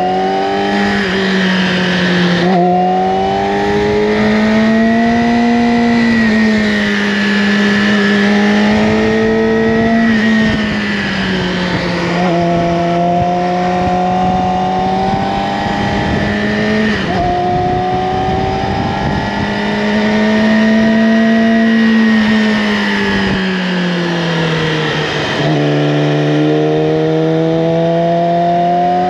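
Yamaha R6's inline-four engine under way through an Akrapovic slip-on exhaust, holding fairly high revs. Its pitch rises and falls gently, with a few sudden steps and dips, near the start, in the middle and near the end.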